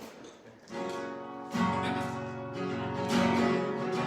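Acoustic guitar strumming chords, opening the intro of a worship song. It comes in about a second in and grows fuller and louder about half a second later.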